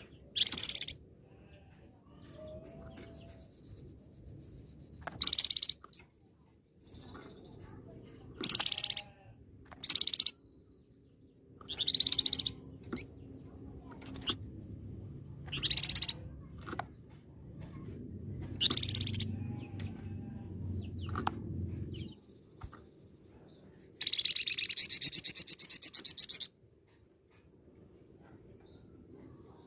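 A songbird of the type Indonesian keepers call 'flamboyan' giving loud, short, high-pitched call notes every one to two seconds. Near the end it breaks into a longer rapid trill of about two and a half seconds, the 'tembakan' shot-like burst that keepers prize.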